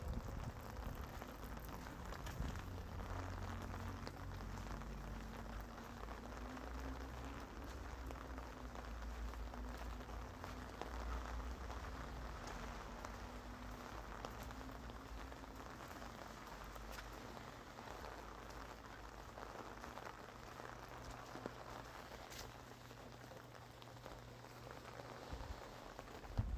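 Real recorded rain falling steadily, a soft dense patter of individual drops over a low rumble.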